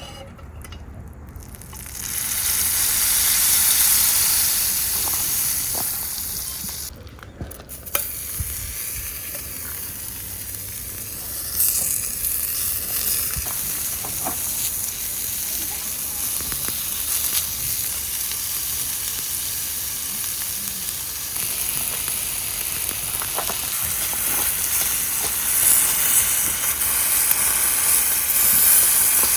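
Food sizzling in a hot pan, a steady high hiss that breaks off briefly about seven seconds in, with a few light taps.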